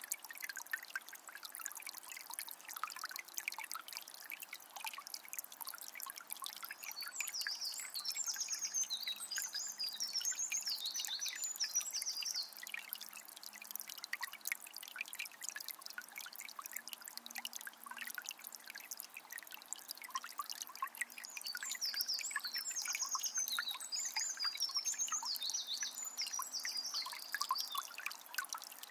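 Forest river flowing with a close, trickling, bubbling babble of water over stones. A bird sings in two long bouts of rapid, high chirping notes, one about a quarter of the way in and another past the middle.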